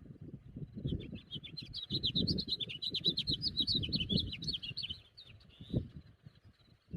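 House finch singing: one rapid, warbling song of about four seconds, a jumble of high notes that ends in a short buzzy note, over a low rumble.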